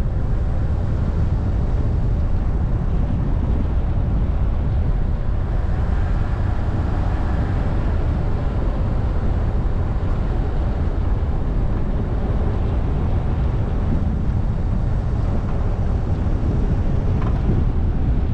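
Wind rumble on a bonnet-mounted action camera's microphone as a Subaru Forester coasts downhill on engine braking. Its CB18 engine is faintly heard under the wind, its tone standing out between about six and nine seconds in.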